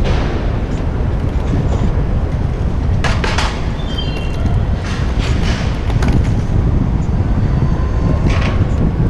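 Wind rumbling on an action camera's microphone while riding a bicycle through city traffic, with several short hissing noises and a few brief high chirps about four seconds in.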